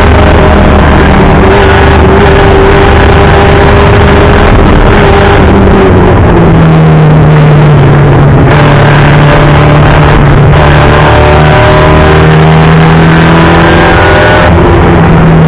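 Spec Miata race car's four-cylinder engine running loud under load. Its pitch drops about six seconds in, then climbs steadily as the car accelerates.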